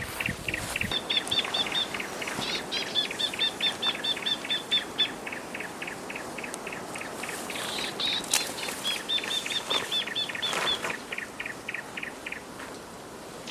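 A bird calling in a long run of quick, evenly repeated chirps, about five a second, that stop near the end. There is a single sharp click about eight seconds in.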